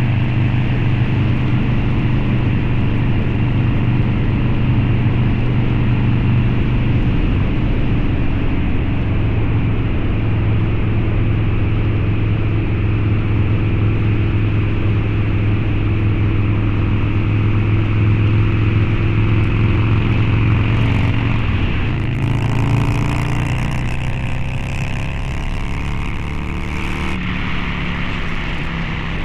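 Harley-Davidson Low Rider's 129 cubic inch V-twin running through a Two Brothers Racing exhaust while riding, holding a steady engine speed. About three-quarters of the way in the engine note changes and a hiss joins it for a few seconds.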